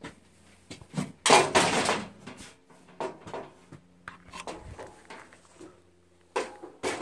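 Riding mower hood being worked off: knocks and clattering, with one loud rattle about a second in that lasts about a second.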